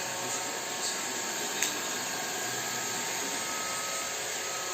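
Robot vacuum cleaner running with a steady hiss and hum, with one short click about a second and a half in.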